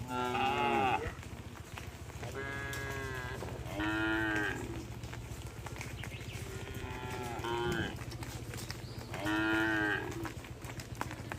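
Cattle mooing: five long moos about two seconds apart, some sliding in pitch, over a steady low hum.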